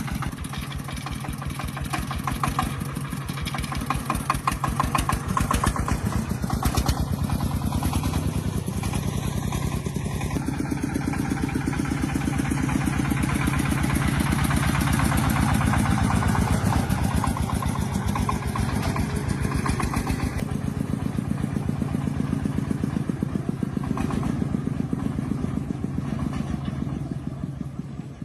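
Truck engine running with a rapid, even firing beat, getting a little louder through the middle.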